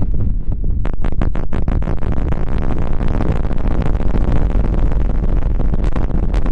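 Hands rubbing and scrubbing right on the microphone, as in ASMR hair washing: a heavy low rumble of contact with the mic, with dense crackling from about a second in.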